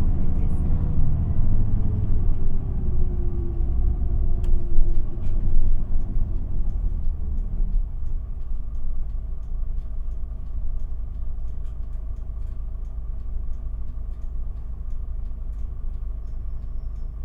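Isuzu Erga city bus (QPG-LV234L3) heard from inside the cabin, slowing down with a falling drivetrain whine and heavy rumble, then settling about eight seconds in to a steady diesel idle as it comes to a stop. Faint regular ticking runs through the idle.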